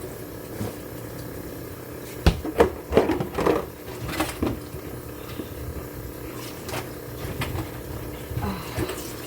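Kitchen clatter: a cluster of knocks and clinks from pots and containers being handled, from about two to five seconds in, with a few lighter knocks later, over a steady hum.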